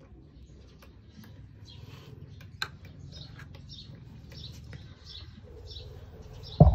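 Small birds chirping: short high chirps repeating a few times a second over a low steady rumble, with a single sharp click partway through and a sudden loud knock at the very end.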